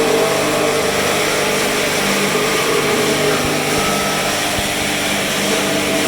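Sawmill woodworking machinery running: a loud, steady motor hum under dense mechanical noise.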